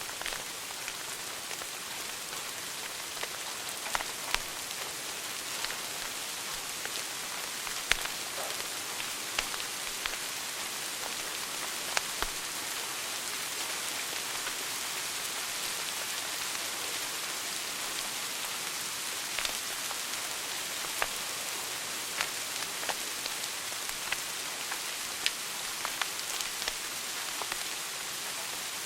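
Wood fire burning in a fireplace: a steady hiss with irregular sharp crackles and pops.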